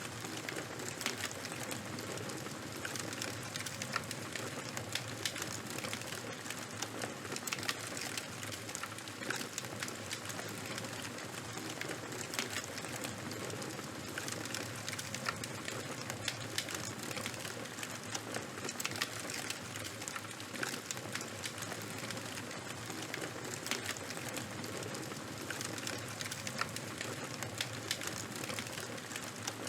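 Charcoal and a bonfire burning, a steady soft hiss with a dense, irregular run of small sharp crackles and pops.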